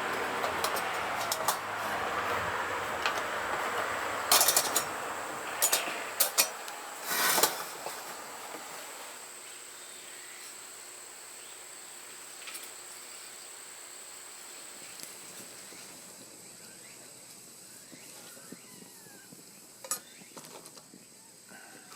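Light metal clinks and taps over a steady hiss, several close together in the first eight seconds. The hiss then drops away, and a few more clinks come near the end.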